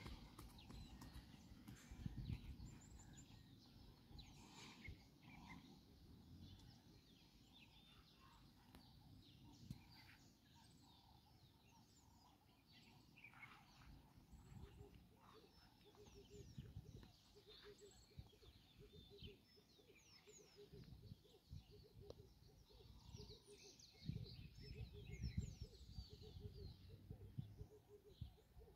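Near silence: scattered faint bird chirps over a low uneven rumble, with the chirps coming more often near the end.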